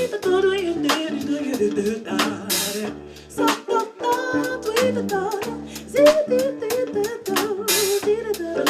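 A live band playing a song with a steady drum beat and sustained melodic lines, with a cymbal crash about two and a half seconds in and another near the end.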